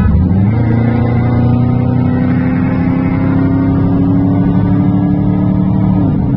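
Car engine at full throttle in a roll race, its note rising steadily as the car accelerates through one gear from about half a second in, then dropping near the end as it shifts up.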